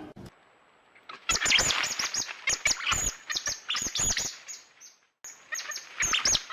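A bird chirping rapidly in quick, high, downward-sweeping notes. The chirps start about a second in, break off briefly near the end, then resume.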